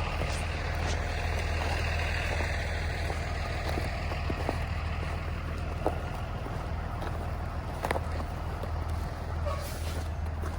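Blue Bird Vision school bus engine running steadily, heard from inside the cabin, with a few light knocks and rattles.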